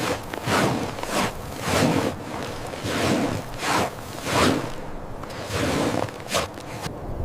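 Footsteps crunching in snow at a steady walking pace, about three steps every two seconds.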